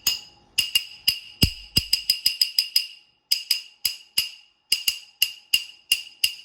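A glass bottle struck again and again in quick runs of taps with short pauses, each tap ringing out in a clear high glassy tone.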